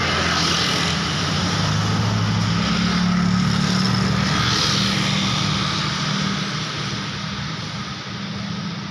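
A motor vehicle passes close by on a road, its engine note and tyre noise swelling to a peak a few seconds in and then slowly fading away.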